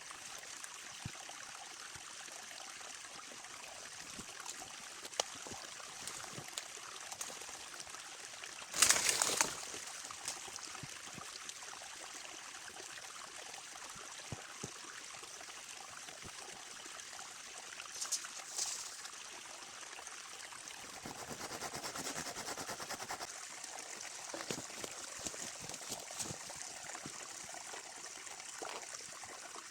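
Steady trickling and running of a forest stream, with scattered small clicks. A brief loud noisy burst about nine seconds in and a smaller one at about eighteen seconds stand out above the water.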